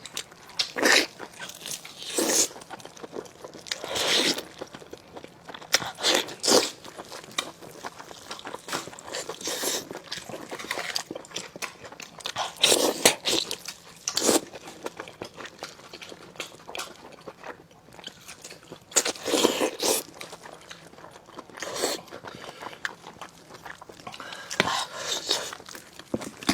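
Close-miked eating: irregular crunchy bites and chewing on braised lamb chops.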